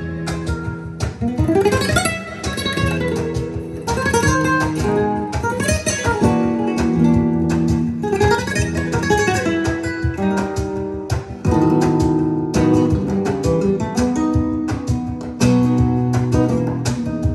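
Lively acoustic guitar music with quick plucked runs and strummed chords, played back through a Willsenton R300 tube amplifier and Klipsch RP-500M II bookshelf speakers.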